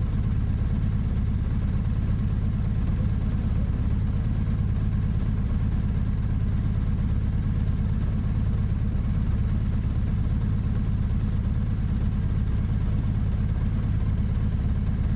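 Motorcycle engine idling steadily with an even low hum.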